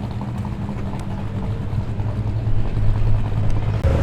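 Car engine running at low speed as a car rolls slowly past. It is a steady low rumble that grows gradually louder and rises more sharply just before the end.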